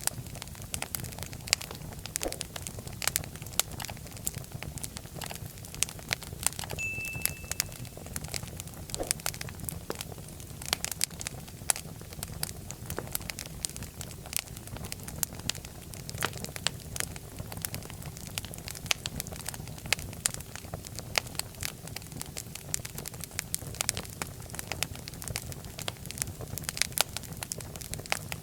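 Fire in a fireplace crackling, with irregular sharp pops over a steady low rumble of flame. A brief high whistle sounds about seven seconds in.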